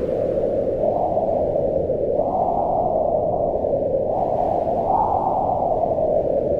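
Strong wind howling, a moaning pitch that swells and falls, rising about two seconds in and again about five seconds in.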